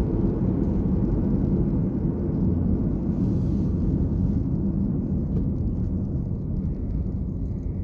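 Steady low rumble of road vehicle noise, easing off slightly toward the end.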